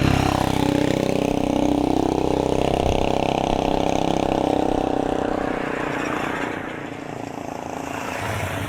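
A motor vehicle's engine passing on the road, its steady hum fading away over about six seconds.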